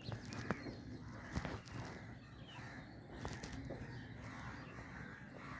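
Birds calling: a few short chirps at irregular intervals among scattered sharp clicks.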